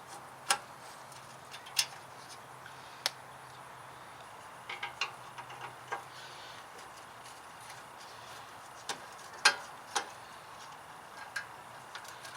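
Hand tools working on the screws of a car's headlight lid: irregular sharp clicks and taps of metal and plastic, about a dozen spread through, the loudest about nine and a half seconds in.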